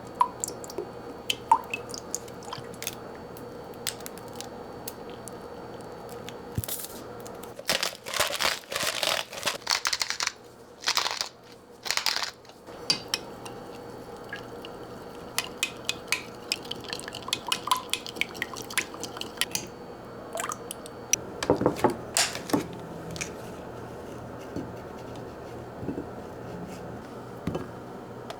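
Kitchen prep sounds: scattered light clicks and taps of dishes and utensils, with a few louder stretches of scraping or rustling handling.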